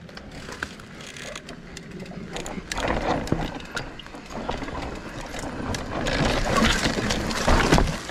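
Mountain bike riding down a dry dirt trail: tyre noise on the dirt with clicks and rattles from the bike, getting louder as the speed builds.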